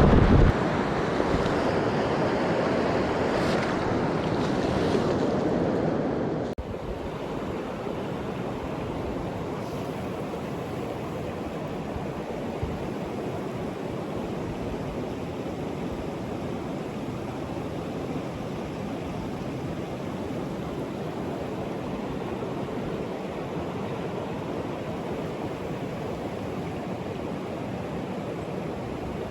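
Mountain stream water rushing in a steady wash. It drops abruptly to a softer level about six and a half seconds in.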